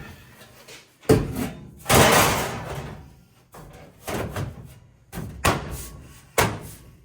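A series of knocks and bangs, one loud rushing clatter about two seconds in, then several more sharp knocks a second or so apart, typical of a person climbing out of a car and handling parts in a workshop.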